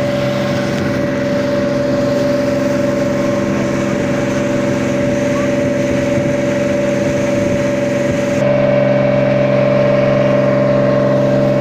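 A boat's engine running steadily, an even hum of several fixed tones over rushing noise, growing slightly louder about eight seconds in.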